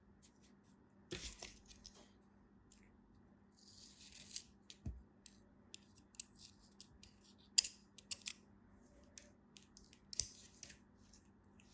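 Close-up handling sounds of a crumbly or crisp material: scattered sharp crackles and clicks, the loudest about two-thirds of the way in, with short scraping rustles about a second in and around four seconds, and a soft thump near five seconds.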